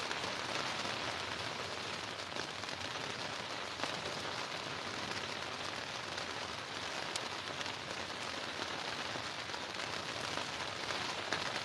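Heavy rain falling in a steady, even hiss, with a few faint single ticks of drops.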